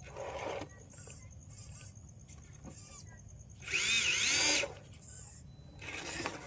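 Electric motor of an RC car whining in three short bursts of throttle, its pitch rising and falling with each burst; the second burst, about halfway through, is the loudest and longest.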